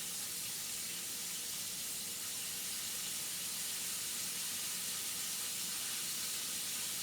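Food frying in hot oil: a steady, even sizzle.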